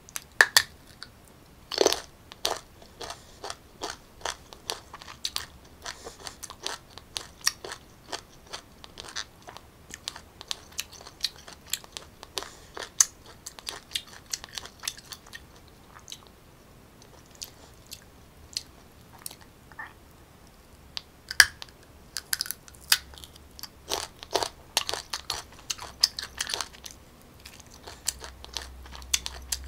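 Crunchy bites into raw unripe green mango, then close-up chewing of the firm flesh: a steady run of sharp, irregular crunches and wet clicks. The crunching is densest and loudest near the start and again about three-quarters of the way through.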